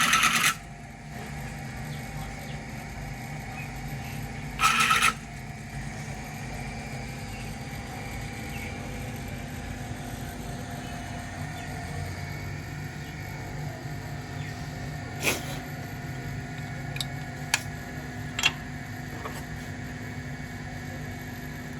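A steady low mechanical hum, with two short bursts of hiss near the start and a few sharp clicks later on.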